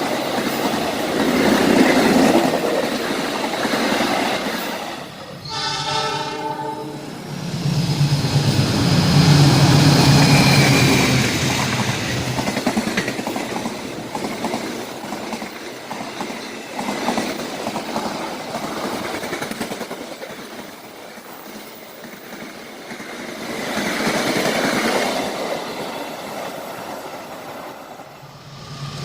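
Trains running past at speed: the rush and rumble of wheels on rail, with a short horn blast about six seconds in. The rushing noise swells twice, around ten seconds in and again near twenty-five seconds.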